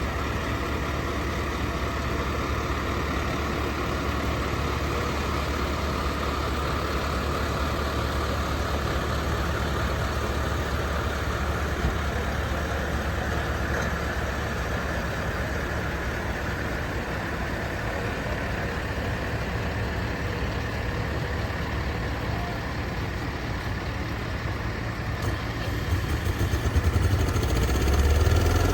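Vehicle engine idling steadily, with a deeper, louder rumble building over the last few seconds.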